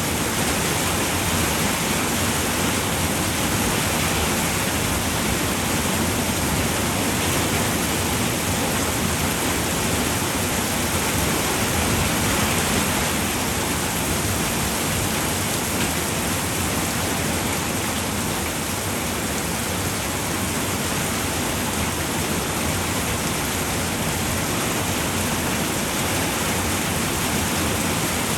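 Steady heavy rain falling on a roof, an even hiss without individual drops or thunder standing out.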